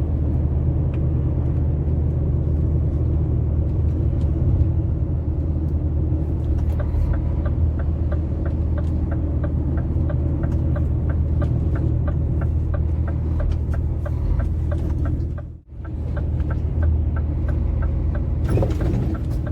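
Steady drone of a semi-truck's diesel engine heard inside the moving cab. From about a third of the way in, a turn-signal indicator ticks about twice a second for a right turn. The sound dips out for a moment near the end.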